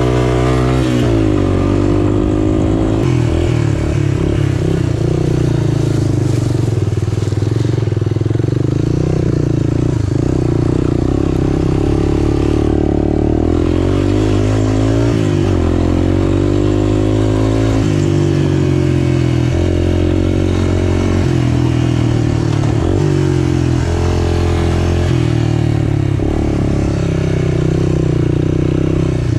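A single-cylinder four-stroke trail machine's engine running under way. Its pitch keeps rising and falling as the throttle opens and closes and the gears change.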